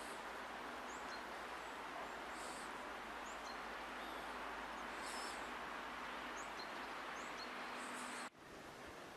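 Steady outdoor noise with a few faint, short, high bird chirps scattered through it. The sound drops suddenly a little after eight seconds in.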